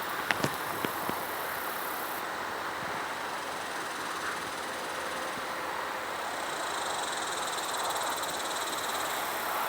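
Rattlesnakes rattling in the brush, a steady dry buzz mixed with the hum of nearby highway traffic. A few light clicks come in the first second.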